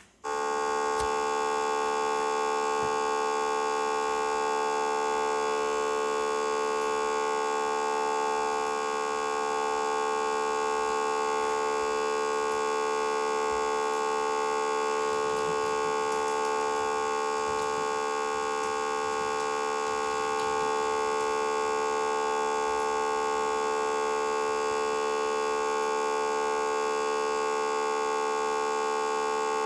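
A continuous, harsh electronic buzzing tone that starts abruptly and holds one pitch without a break.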